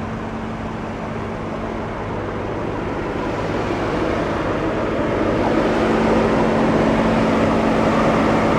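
Vehicle noise outdoors, growing steadily louder over several seconds over a constant low hum, then cut off suddenly near the end.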